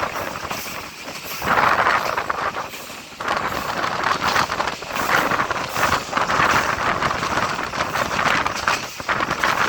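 Train running along the track: a steady noisy rumble and rattle that swells and eases every second or two.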